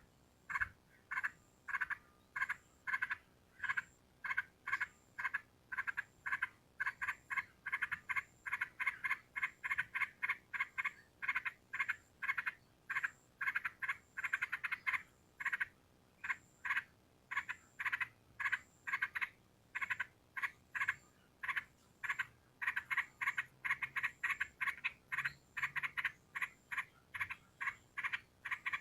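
A long run of short, identical animal calls, about three to four a second, repeating steadily with a few brief pauses.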